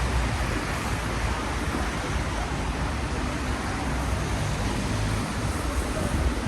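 Rainy city street ambience: a steady hiss of traffic on wet roads and rain, with a low rumble that swells near the start and again near the end.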